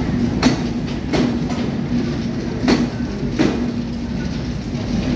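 Passenger coaches of a Bangladesh Railway intercity express rolling past, with a steady rumble and hum. The wheels clack over a rail joint four times, in two pairs.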